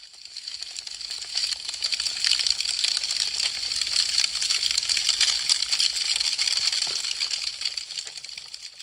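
Wood fire crackling with dense, sharp snaps. It swells up over the first couple of seconds and fades out near the end.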